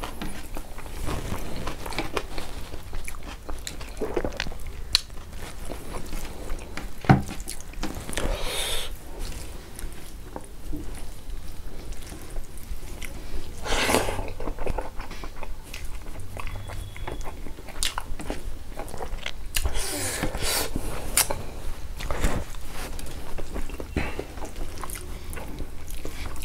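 A man chewing and biting through handfuls of rice, greens and pork eaten by hand, with wet mouth clicks. Louder noisy bursts come about 8, 14 and 20 seconds in.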